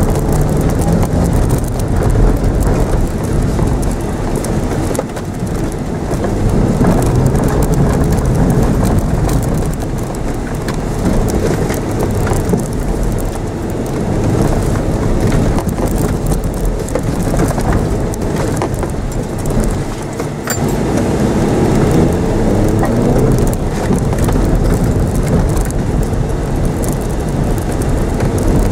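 Mitsubishi Mirage's engine revving up and falling back again and again inside the cabin as the car is driven hard around a grass motorkhana course, over a steady rumble of tyres and ground noise with occasional sharp clicks.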